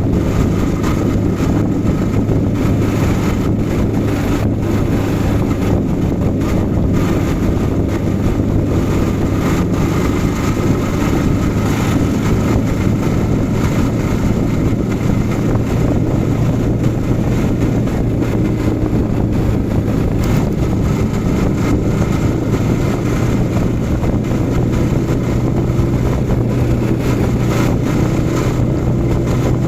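Yamaha R15 V4's single-cylinder 155 cc engine running at a steady cruising speed, a constant engine note with a rush of wind noise over it; the pitch creeps up slightly near the end.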